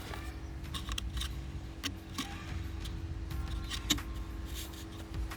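Scattered light clicks and knocks of car heater blower parts being handled, with a steady low hum underneath.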